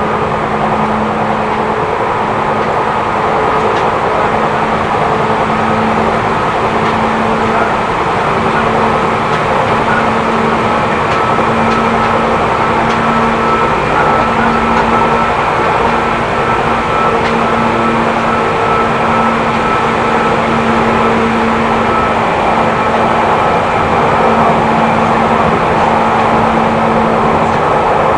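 Interior running noise of a Seibu New 2000 series electric train car under way: steady wheel-on-rail rumble with a steady motor hum.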